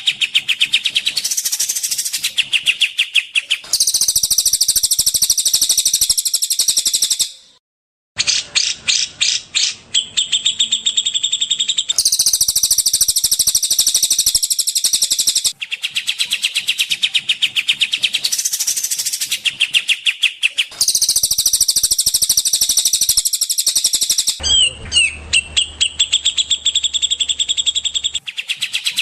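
Songbird song from a masteran training recording: fast, high trills and rapidly repeated chattering notes, in spliced segments that switch abruptly, with a brief break about seven seconds in.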